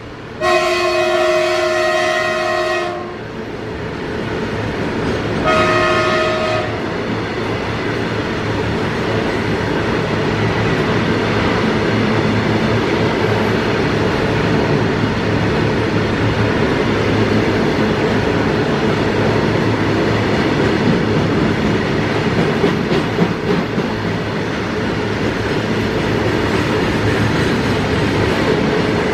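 Indian Railways diesel freight locomotive's multi-tone horn: one long blast of about two and a half seconds, then a short blast a few seconds later. After that comes the steady rumble of a freight train passing close by, with wheels clattering on the rails.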